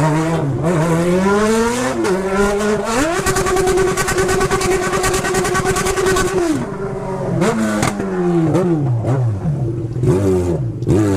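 Motorcycle engine pulling hard through the gears: the pitch climbs and drops at each shift, holds steady at high revs for about three seconds mid-way, then falls off and revs up and down again.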